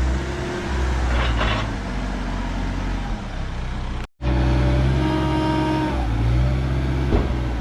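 Heavy farm machine's diesel engine running steadily under load while pushing the combine across the trailer; the sound drops out for a moment about four seconds in, then the engine note returns stronger and shifts pitch near the end.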